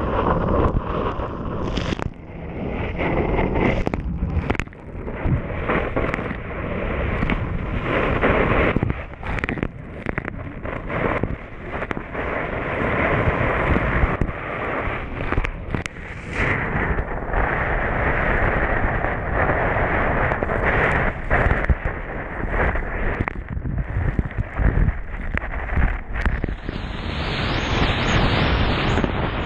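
Heavy wind buffeting on the microphone of a moving jet ski, over the watercraft's engine and the water rushing past, with many irregular sharp gusts and slaps.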